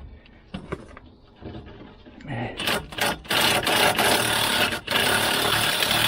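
A few light handling clicks, then about two and a half seconds in a power cutting tool starts and runs steadily, loud and rasping, cutting through fasteners that could not be undone with a wrench. It stutters briefly once near the end.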